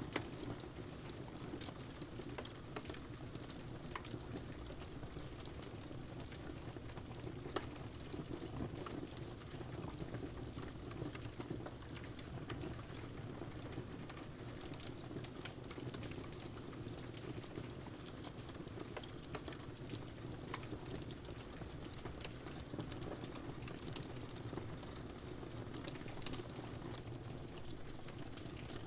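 Steady rain and a wood fire crackling: an even rushing hiss with scattered sharp pops and snaps.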